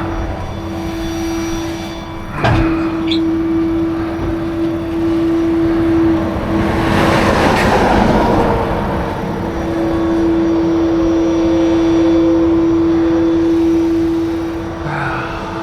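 Highway traffic, with one vehicle swelling past about seven seconds in, over a steady hum, and a single sharp knock about two and a half seconds in.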